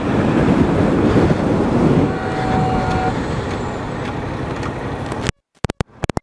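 Motorcycle riding on the road: engine running under a heavy rush of wind on the microphone, with a faint steady tone for about a second a couple of seconds in. The sound then cuts off abruptly, leaving silence with a few sharp clicks.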